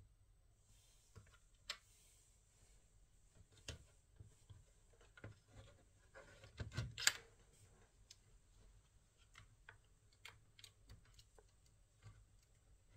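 Scattered faint clicks and light taps of small hard parts being handled, with a louder cluster of knocks about seven seconds in.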